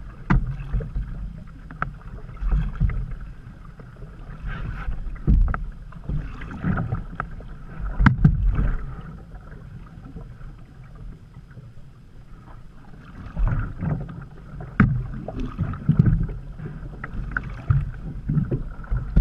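Canoe being paddled: irregular paddle splashes and water sounds, with low thumps and several sharp knocks of the paddle or gear against the hull, the loudest about halfway through.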